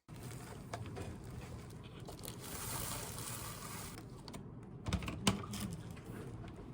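Typing on a mechanical keyboard: a run of quick key clicks, with two louder knocks about five seconds in.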